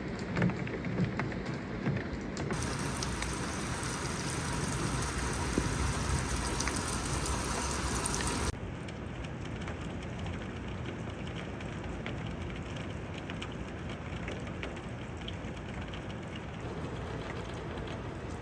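Steady rainfall pattering on surfaces, with scattered small drop ticks. About two and a half seconds in it abruptly turns louder and hissier, then drops back just as suddenly about eight and a half seconds in.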